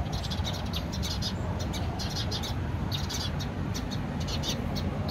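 Small birds chirping over and over, short high twitters several times a second, over a low steady rumble.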